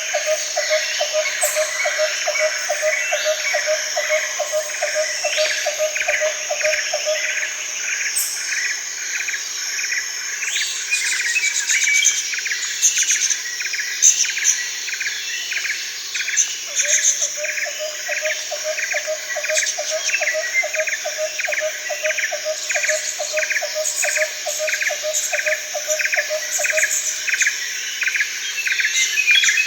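Daytime rainforest chorus of insects and birds: a steady high insect drone and an even pulsed call repeating a few times a second throughout, with scattered bird chirps. A lower pulsed trill runs for several seconds at the start and again in the middle.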